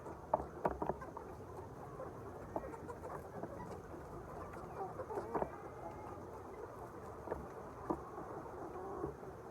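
A flock of chickens clucking and chirping, with scattered short calls over a steady low background.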